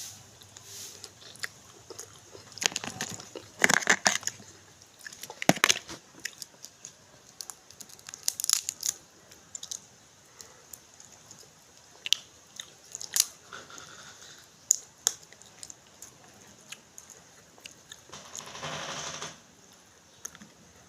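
Close-up eating sounds: chewing and crunching, with scattered sharp cracks and a few louder bursts of crunching, and a longer rustle near the end.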